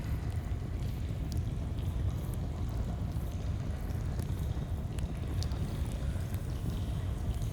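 A flowing stream's steady low rush of water, with a campfire crackling over it in scattered sharp pops.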